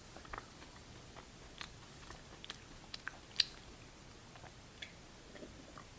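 Faint chewing close to the microphone: scattered soft clicks and small crunches from the mouth, one a little louder about three and a half seconds in.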